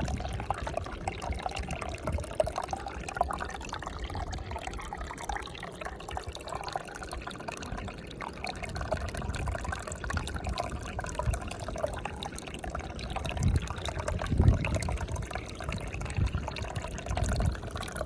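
Water running and splashing continuously, with an uneven gurgling texture and a couple of louder low surges about two-thirds of the way through.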